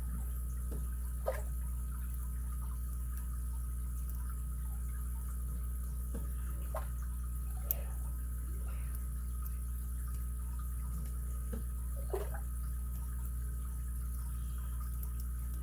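Lock picks working inside an ABUS 83CS/55 padlock: faint scraping and small ticks, with three sharper clicks spread through, over a steady low electrical hum.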